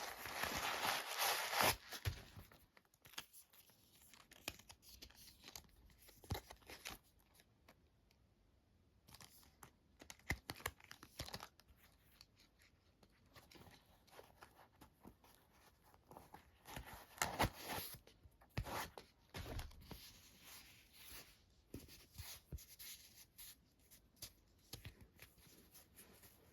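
Shoe packaging handled by hand, tearing and crinkling in short bursts. The loudest burst is in the first two seconds, with more around the middle and later on, and quieter rustles and small clicks between.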